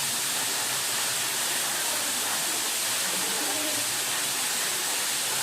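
Waterfall: a steady rush of falling water that does not change in level.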